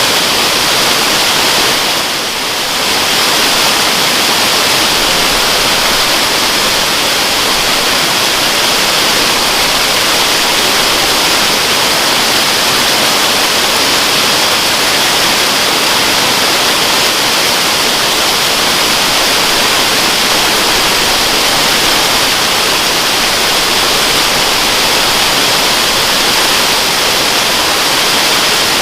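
Waterfall: water pouring and splashing in a steady, hissing rush, dipping briefly about two seconds in.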